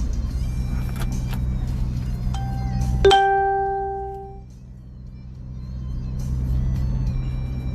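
Steady low hum like a vehicle running. About three seconds in comes one bright bell-like chime that rings out for over a second.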